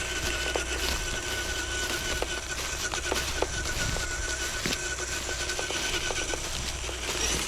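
RC scale crawler driving: the electric motor and gears give a steady, slightly wavering whine that stops about six seconds in. Scattered sharp clicks and crunches come from the truck working over twigs and forest litter.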